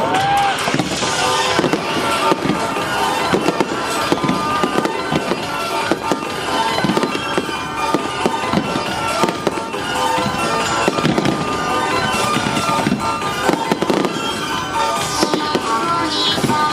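Fireworks shells bursting one after another, many reports through the whole stretch, over music played for the show.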